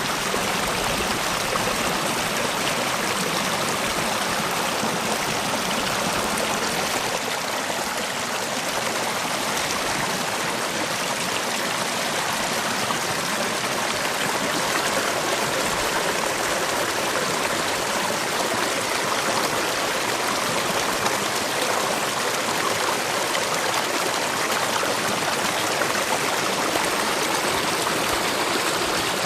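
Mountain valley stream running steadily, an even, unbroken rush of flowing water.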